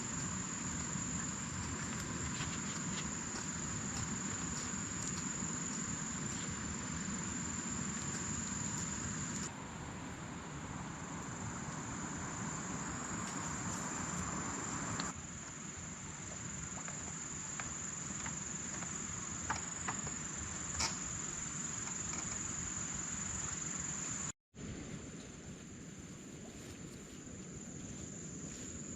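Insects trilling steadily in one constant high-pitched note over an outdoor background hiss, with a couple of small clicks about two-thirds of the way through. The sound cuts out for a moment near the end.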